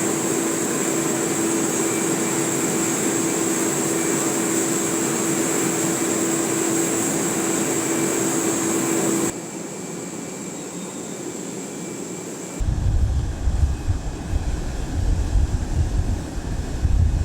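Jet aircraft engines running, a steady whine over a loud hiss with one low and one high tone held throughout. After an abrupt cut the sound drops to a quieter hiss, and a few seconds later wind starts buffeting the microphone in low, gusty thumps.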